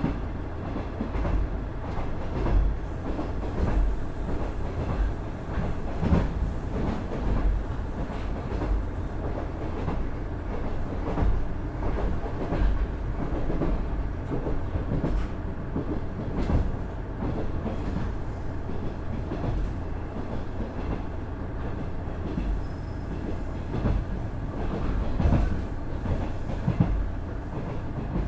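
KiHa 110 series diesel railcar running along the line: a steady low rumble with irregular clacks and knocks of the wheels over the track.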